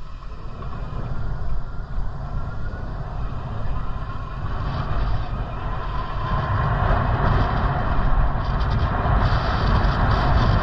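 Wind buffeting the microphone and road noise of a moving bicycle, a steady rush with a deep rumble that grows louder about six seconds in.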